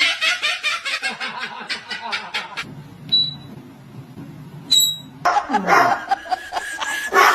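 Laughter in quick, rhythmic pulses, broken near the middle by two short high-pitched whistle-like tones, then more laughing.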